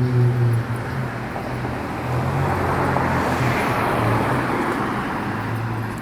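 A road vehicle passing: a steady low hum under a rush of noise that builds to a peak midway, then eases off.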